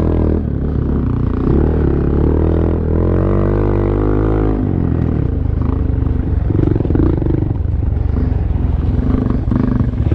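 Honda Monkey 125's small single-cylinder engine pulling along a dirt trail. Its pitch rises for a couple of seconds, the revs drop sharply about halfway through, and it then runs unevenly at lower revs.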